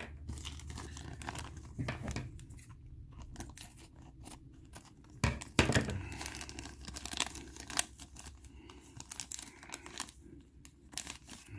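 Plastic miniature bags being handled and torn open: irregular crinkling and tearing with many small clicks, loudest in a burst about halfway through.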